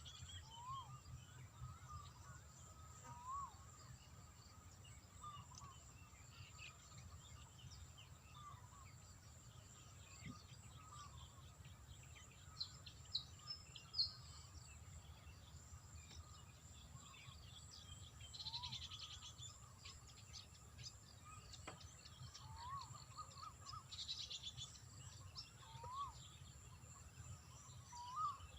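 Faint outdoor ambience: birds chirping in short, repeated calls every second or two, over a low steady rumble.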